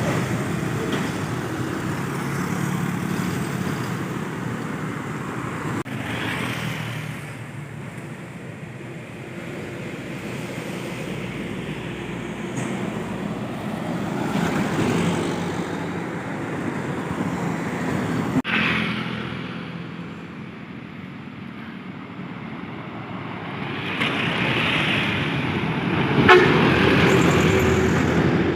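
Road traffic with trucks passing, the noise swelling and fading several times, and a vehicle horn sounding briefly near the end.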